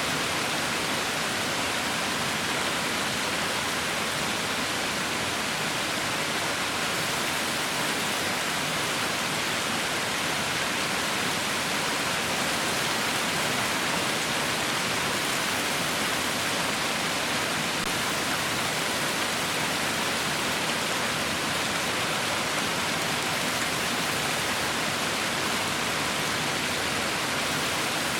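Heavy rain falling as a steady, even hiss with no distinct drops or changes.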